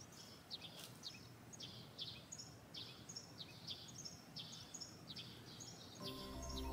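Faint outdoor ambience with a small bird chirping: short, quick chirps, a few a second. Background music fades in near the end.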